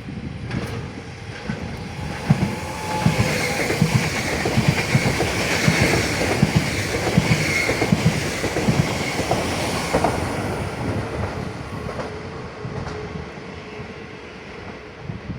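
A train passing on the rails, its wheels clacking rhythmically over the joints. It grows louder over the first few seconds, is loudest through the middle, and fades away toward the end, with a thin high tone near the middle.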